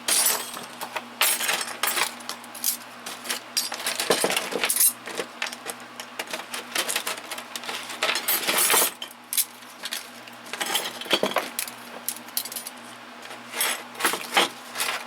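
Small metal tools such as drill bits clinking and clattering as they are handled and dropped into toolbox drawers, in irregular bursts of sharp metallic clicks.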